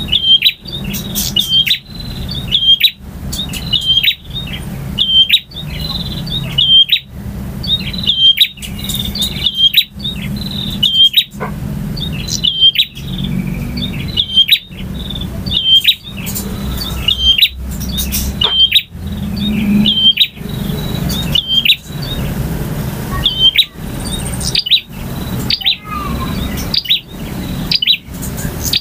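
Male prinia (prenjak) singing: loud, sharp chirps repeated about once a second, over a steady low rumble.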